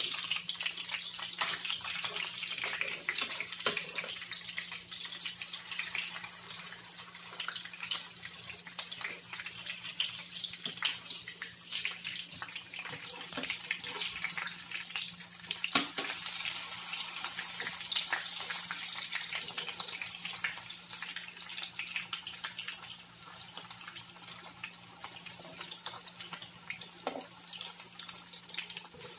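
Chicken pieces frying in hot oil in a nonstick pan: a steady crackling sizzle, with occasional sharp clicks of metal tongs on the pan as the pieces are turned. The sizzle slowly dies down toward the end.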